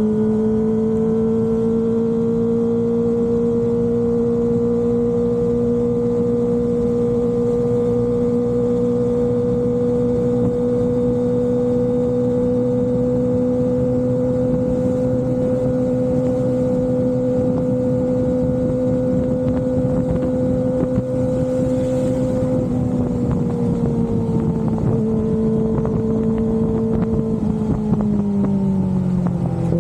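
Kawasaki Ninja ZX-25RR's 249 cc inline-four engine running through an Austinracing aftermarket exhaust, holding a high, steady note that creeps slightly upward. The pitch then drops in two steps, once a little past two-thirds of the way through and again near the end.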